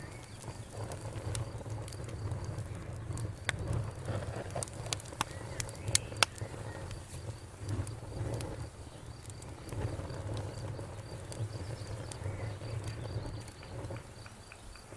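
Wood fire crackling, with a cluster of sharp pops a few seconds in over a steady low rumble. Crickets chirp faintly and steadily behind it.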